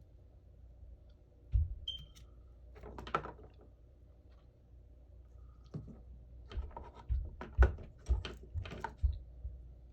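Small hard knocks and clicks of tools and a phone being handled on a repair bench, with a short scraping rustle about three seconds in and a quick run of clicks in the second half, over a faint steady hum.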